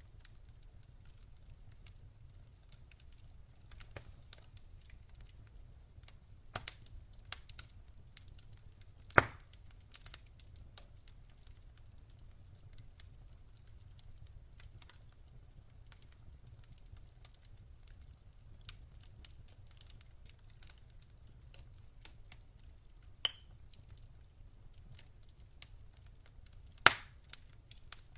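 Campfire crackling: scattered sharp pops and snaps of burning wood, the loudest about nine seconds in and a few more close together near the end, over a faint low rumble.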